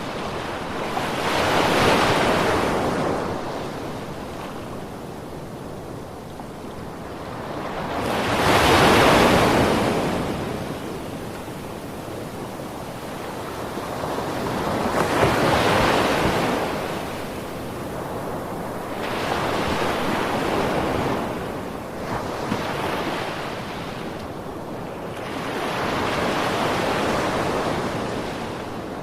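Ocean waves breaking and washing in, five swells that rise and fall about every six seconds.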